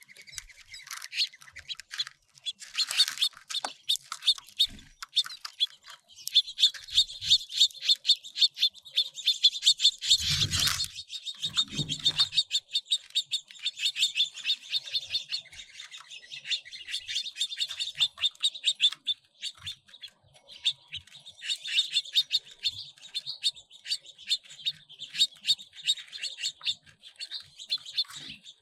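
Small finches chirping continuously at feeders, a dense run of rapid, high chirps from several birds at once. Two brief low thumps come about ten and twelve seconds in.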